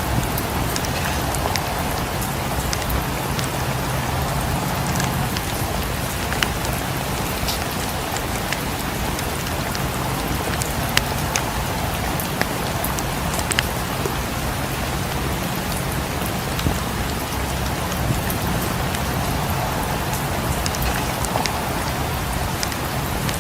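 Steady rain falling against a cabin's windows, with scattered sharp crackles and pops of a wood fire in a fireplace.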